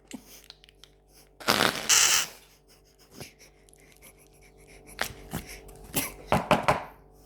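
A fart-like squelching noise about a second and a half in, lasting under a second, followed by a few short sharp pops near the end.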